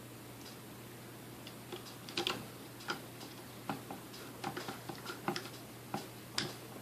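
Irregular sharp clicks, about a dozen over several seconds, as the Sunbeam Mixmaster Model 12's switch and contacts are worked by hand. The motor stays silent: the mixer will not run through its switch.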